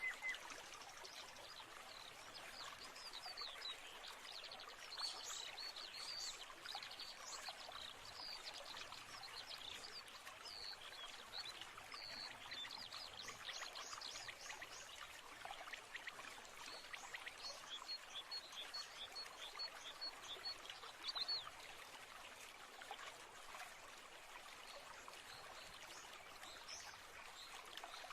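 Flowing stream trickling steadily, with small birds chirping over it, including a run of evenly spaced high chirps about two-thirds of the way in.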